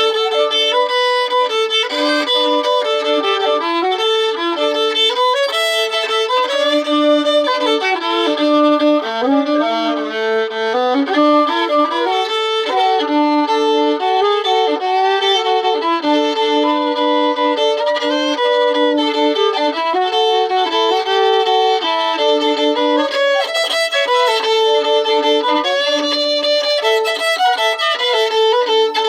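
Solo fiddle bowed through a tune aimed at a Cajun sound, the notes moving in steps and often two strings sounding at once.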